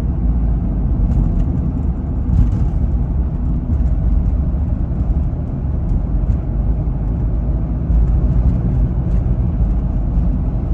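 1991 Mitsubishi Delica Star Wagon's turbo-diesel engine running under way, a steady low rumble mixed with road noise.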